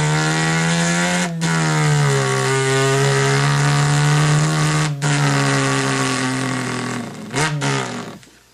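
A man's mouth imitation of an engine: one long, steady buzzing drone held for several breaths' worth, broken by brief catches about a second in and again around five seconds, sinking slightly in pitch and wavering out near the end.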